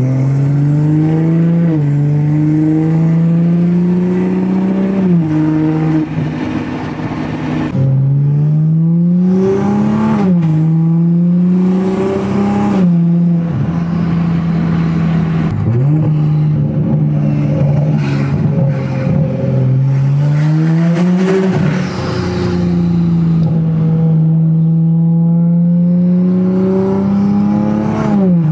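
2020 Toyota Supra's B58 turbocharged inline-six running through a straight-piped exhaust under acceleration. Its note climbs in pitch and then drops back sharply several times as it shifts up through the gears, with a couple of steadier cruising stretches between.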